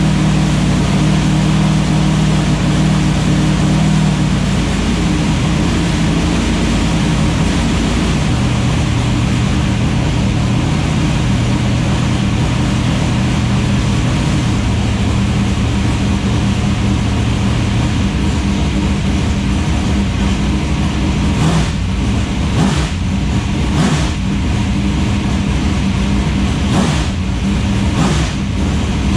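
Engine running steadily at idle, its pitch dropping a little about four to five seconds in, with a few short knocks near the end.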